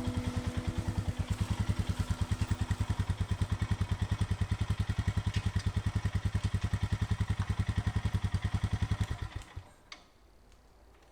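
Engine idling with a fast, even beat, then shut off about nine seconds in; a faint click or two follows.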